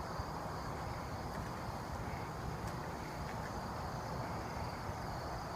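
Steady, high-pitched chirring of insects, with a low background rumble beneath it.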